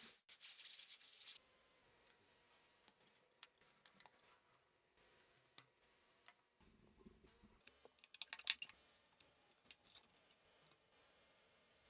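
A hiss that cuts off about a second and a half in, then scattered faint clicks and taps. A quick run of louder clicks comes about eight and a half seconds in.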